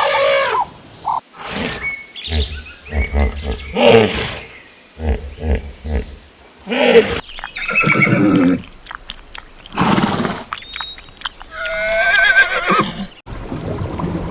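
Horses whinnying and neighing: a run of separate calls with short gaps between them, the longest a wavering whinny about twelve seconds in.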